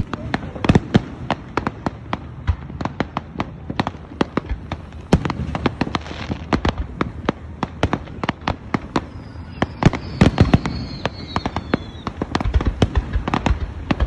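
Aerial fireworks display: a rapid, irregular run of sharp bangs and crackles, several a second, with heavier clusters of reports about six, ten and thirteen seconds in.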